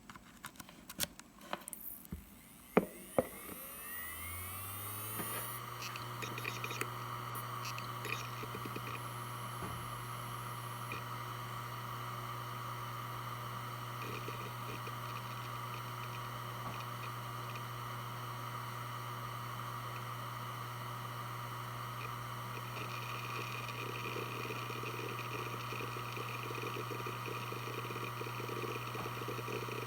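Western Digital WD1600AAJS 3.5-inch 7200 RPM hard drive powering up. After a few sharp clicks, its platters spin up with a rising whine and within about two seconds settle into a steady spinning hum. From about two-thirds of the way in, the heads add busier seek chatter as the drive works through a file operation.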